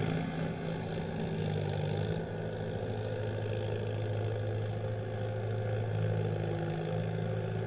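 Hindustan 60 tractor engine running steadily at idle, a low, even hum.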